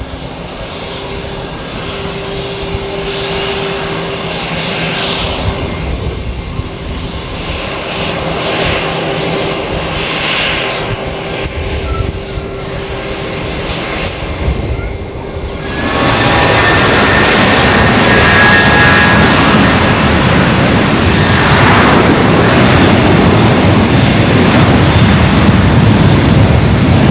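Airliner's jet engines, a steady hum growing slowly louder, then jumping suddenly to a much louder roar about two-thirds of the way in.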